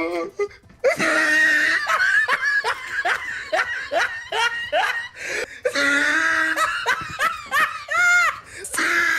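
Loud, hearty laughter in rapid repeated ha-ha bursts. It breaks off briefly about halfway through, then starts again and ends in a few rising-and-falling notes.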